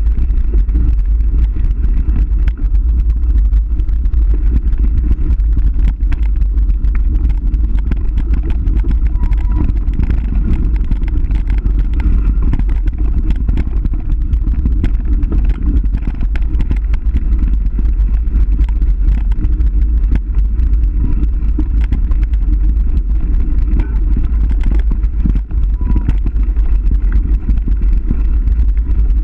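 Loud, steady low rumble of wind buffeting the microphone on a downhill ride, with small clicks and rattles throughout.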